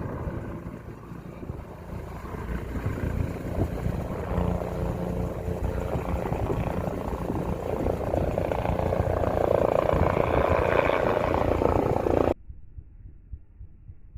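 Bell 407HP helicopter's rotor and turbine running, growing steadily louder, then cutting off abruptly about twelve seconds in to a faint, low throbbing.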